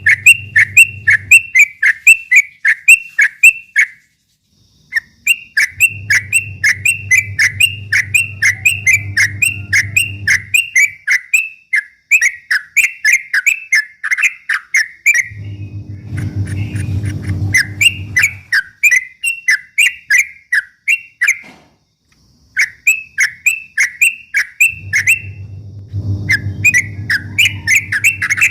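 A yellow-vented bulbul (trucuk) singing in long, fast runs of repeated whistled notes, several notes a second, broken by brief pauses. A low hum sits under most of the runs.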